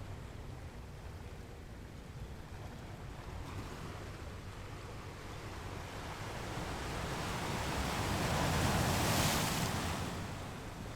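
Sea waves breaking on rocks: a steady low surf rumble, with one wave building and crashing in a loud hissing wash near the end before it subsides.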